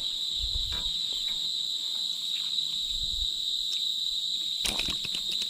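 Steady high-pitched drone of an insect chorus, with a few low knocks in the first second and a short clatter of clicks about four and a half seconds in.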